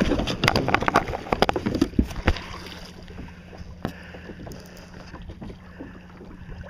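Sharp knocks and splashing around a fishing kayak for the first two and a half seconds, then quieter steady wind noise on the microphone.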